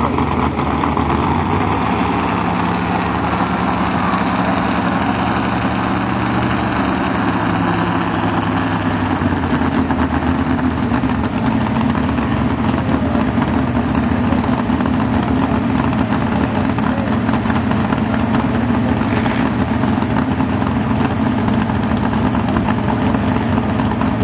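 Modified-class pulling tractor's engine running loud and steady, its note changing about nine seconds in.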